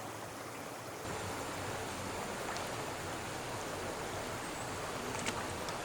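Steady rushing of a river flowing, with a couple of faint ticks.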